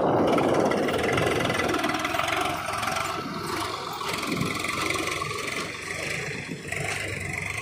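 JCB 3DX backhoe loader's diesel engine running under working load, loudest at the start and easing off over the following seconds.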